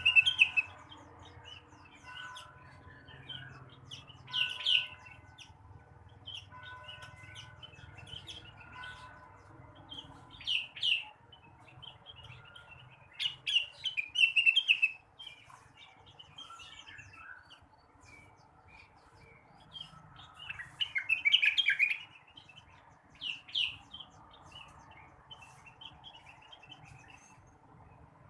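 A leafbird (cucak wilis or rengganis) singing in short bursts of quick, chirping phrases every few seconds, the longest spell about 20 seconds in. A faint steady hum runs underneath.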